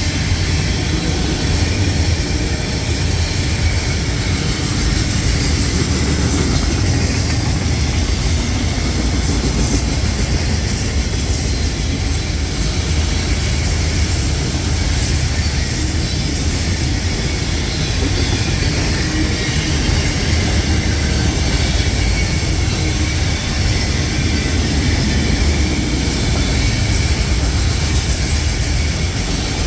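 Freight train cars rolling past at close range: a steady, loud rumble of wheels on rail, with faint high wheel squeal now and then.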